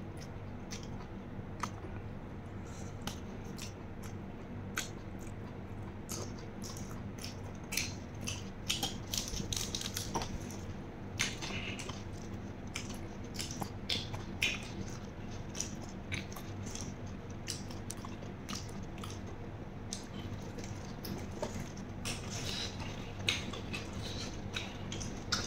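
Close-miked mouth sounds of chewing raw beef koi, with many short wet clicks and crackles scattered through. Now and then a metal spoon clicks against a steel tray. A steady low hum runs underneath.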